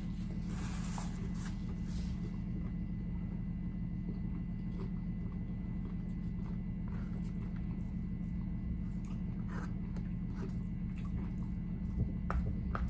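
Close-miked chewing and mouth sounds of a person eating a steak and rice bowl, with faint scattered clicks that grow sharper near the end, over a steady low hum.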